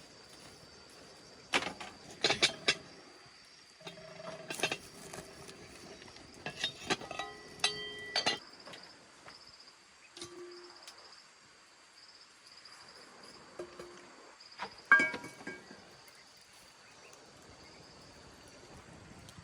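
Insects chirping steadily with a high, shrill tone that turns pulsing in the second half. Over it come scattered sharp knocks and clinks of objects being handled, in clusters, the loudest about fifteen seconds in.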